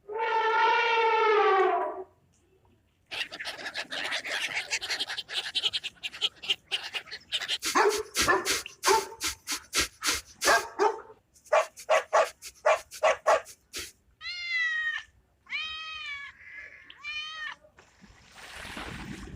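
A string of short animal-call clips cut one after another, mainly a cat meowing and a dog barking: a falling call near the start, a long run of rapid calls in the middle, and three short rising-and-falling calls near the end.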